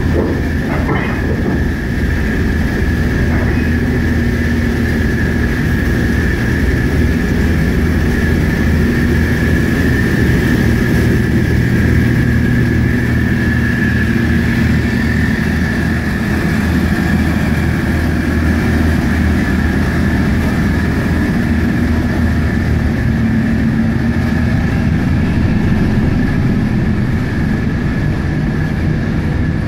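A train or locomotive running steadily: a continuous low rumble with a steady high-pitched whine over it.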